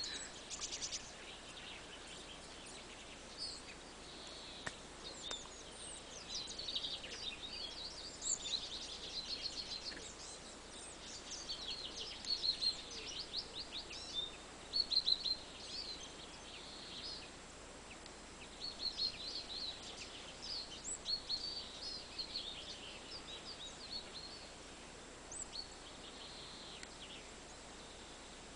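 Several songbirds singing and calling: runs of rapid, high trills and chirps, busiest from about six to sixteen seconds in, over a faint steady background noise.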